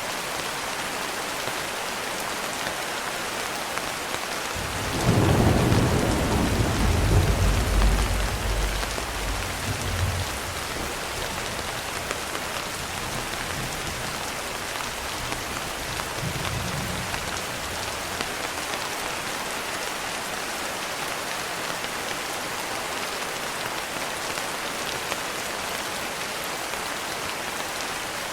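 Steady rain, with a long roll of thunder that builds about five seconds in and rumbles away over several seconds. A fainter rumble follows later.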